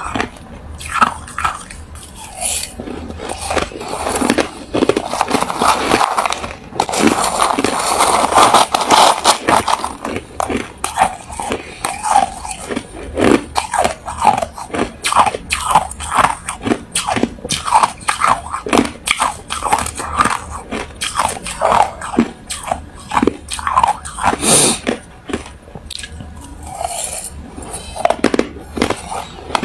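Refrozen crushed ice being bitten and chewed close to the microphone: hard, crisp crunches in quick succession, with a denser run of crunching about a quarter of the way in.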